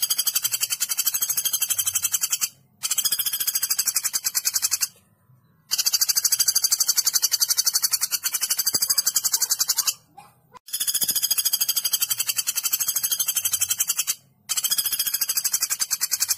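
Woodpecker calling in long, very fast rattling trills of high notes, in about five bouts of two to four seconds each, broken by short pauses.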